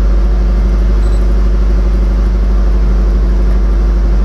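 2005 Toyota Avanza's four-cylinder engine idling steadily, with its intake air pressure and intake air temperature sensors unplugged.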